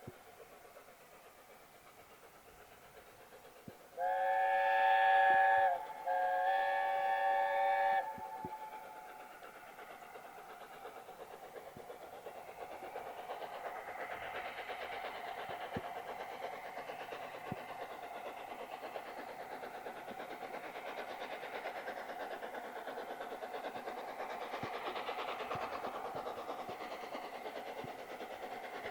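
Steam locomotive whistle giving two blasts of about two seconds each, with several tones sounding together, starting about four seconds in. Afterwards comes the steady noise of a train running, building slowly.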